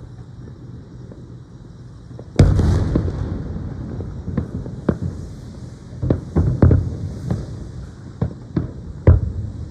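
Aerial fireworks shells bursting over water. After a quieter start, a loud boom comes about two and a half seconds in, trailing a crackling hiss. A string of sharp bangs follows to the end.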